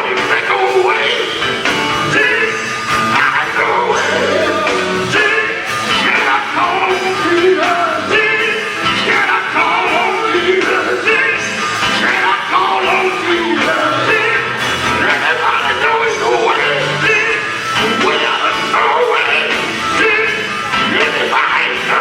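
Male gospel group singing live with loud band accompaniment, voices sliding and shouting over the music.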